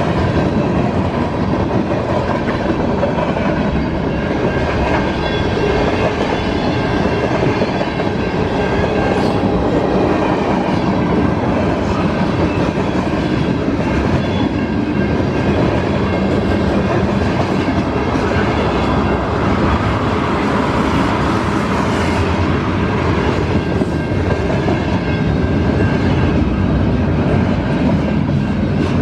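CSX mixed freight train's cars rolling past, a loud, steady rumble of steel wheels on rail that holds even throughout.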